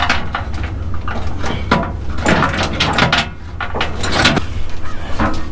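Steel tie-down chains clanking and rattling in irregular bursts as they are handled and pulled off in a trailer's well, over a steady low hum.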